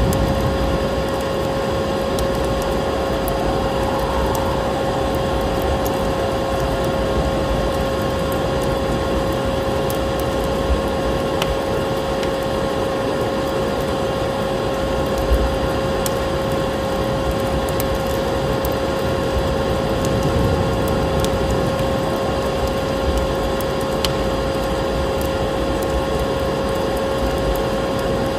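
Vacuum cleaner running steadily with a constant whine, layered over an even rushing noise, with a few sharp crackles of a fireplace fire here and there.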